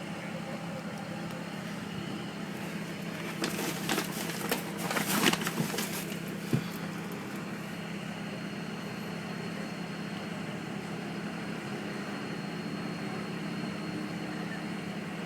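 Steady low hum of a vehicle engine idling. About three seconds in comes a few seconds of clicking and rustling, ending in one sharp knock.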